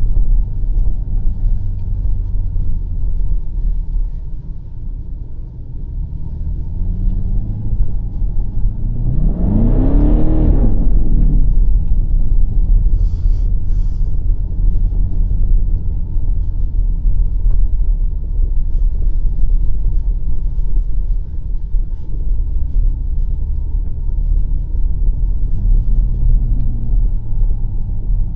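BMW X5 M50i's twin-turbo V8 running under a steady low rumble of road and engine noise. About ten seconds in, the engine revs up and drops back down, the pitch rising and falling over roughly two seconds, and it rises again briefly near the end.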